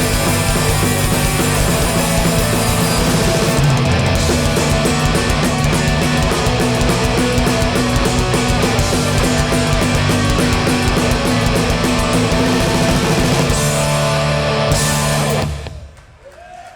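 Hardcore punk band playing live, loud with distorted guitar and no singing, ending the song abruptly about a second before the end.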